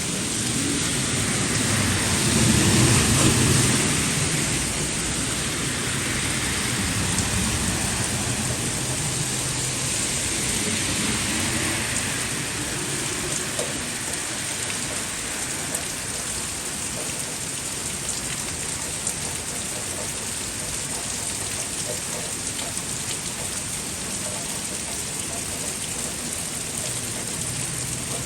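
Heavy rain falling steadily, a dense even hiss. A few seconds in it swells louder with a low rumble, then settles back.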